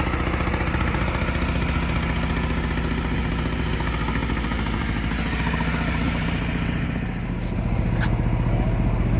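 Detroit Diesel 6V92TA two-stroke V6 turbo diesel in an FTF logging truck running steadily. Its level dips briefly about seven seconds in, then picks up slightly louder.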